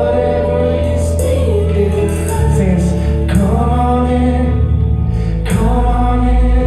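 Live gospel worship music: a band with sustained bass and cymbal strikes, and voices singing held notes.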